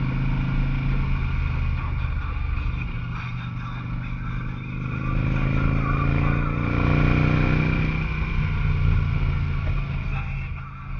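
Harley-Davidson Electra Glide Classic's Twin Cam 88 V-twin running under way. Its note rises and grows louder around the middle as it pulls uphill through the bends, then eases off near the end.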